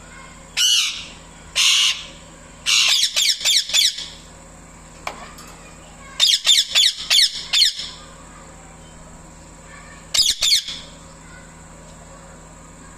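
Indian ringneck parrot giving loud, shrill calls in bouts: two single calls, then rapid runs of five or six calls, and a short run of three near the end. These are calls to a male parrot.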